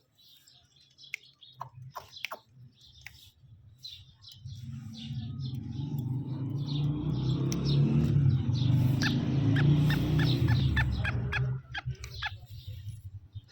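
Black francolin calling in short, sharp notes. A low rumble swells in about four seconds in and drops away near the end.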